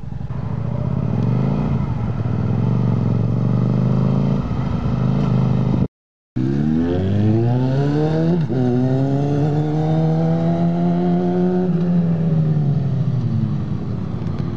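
Motorcycle engine running and pulling away, its pitch climbing. After a brief break, it revs up steeply, drops sharply in pitch at an upshift, holds a steady pitch, then falls away as the bike slows near the end.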